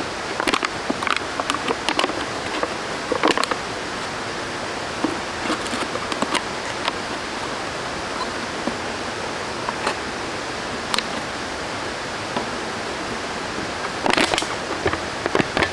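Steady rushing of water, with scattered sharp clicks and knocks that bunch up in the first few seconds and again near the end.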